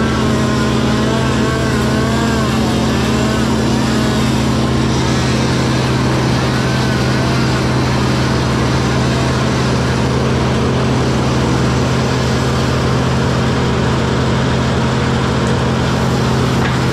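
A diesel machine engine running steadily at a constant speed, loud and unchanging. A faint wavering tone rises and falls over it in the first few seconds and briefly again near the middle.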